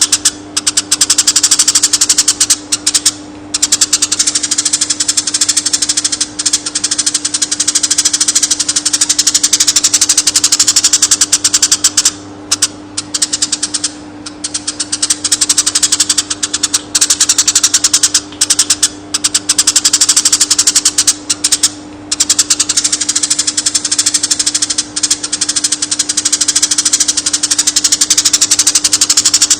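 Eurasian tree sparrow singing a long rolling song: very rapid, continuous chirping that breaks off only for a few short pauses. A steady low hum runs underneath.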